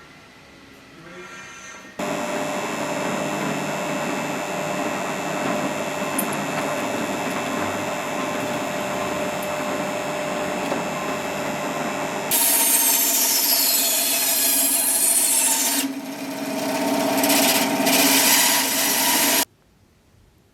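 Electric power tool running steadily while working the knife, starting abruptly about two seconds in, changing its sound suddenly twice, and cutting off sharply near the end.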